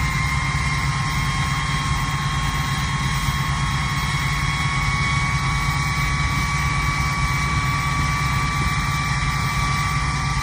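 Straight-piped 6.7 Cummins inline-six turbodiesel idling after a cold start: a steady low exhaust rumble under the high whistle of its 7-blade turbo, which creeps slowly upward in pitch.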